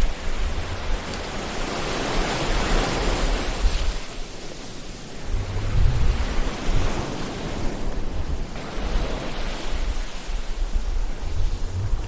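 Ocean waves surging and washing in, the noise swelling and easing in swells a few seconds apart, with a low rumble underneath.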